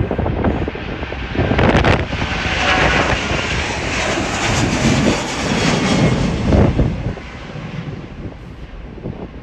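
Jet airliner's engines at takeoff thrust, a broad roar that swells about two seconds in, holds, then fades away after about seven seconds, with wind gusts buffeting the microphone.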